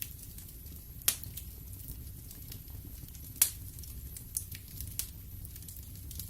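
Wood fire burning in a fireplace: a steady low rumble of the flames with scattered crackles, and two sharp pops of the wood about a second in and again a little past the middle.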